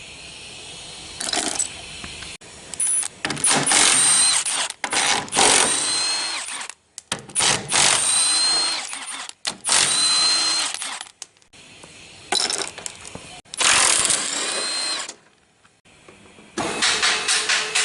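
A power tool run in about six bursts of one to two seconds each, with a high whine that climbs in pitch during several of them. Music with a quick, even beat comes in near the end.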